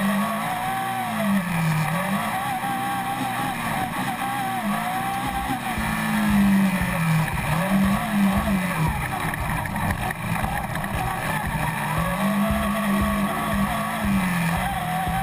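Competition car's engine heard from inside the cabin, revving up and falling back again and again as it accelerates, shifts and lifts off, over constant road noise.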